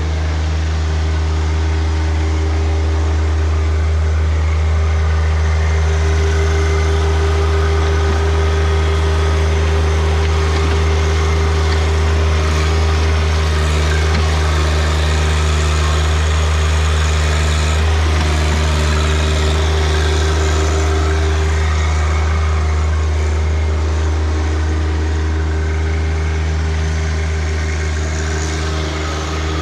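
John Deere 1025R compact tractor's three-cylinder diesel engine running steadily, a constant low hum.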